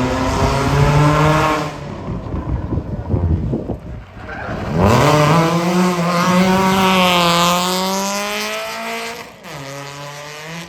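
Drift car's engine revving hard, falling away for a couple of seconds to scattered crackles, then climbing steeply and holding at high revs while the tyres squeal, before dropping back to a lower note near the end.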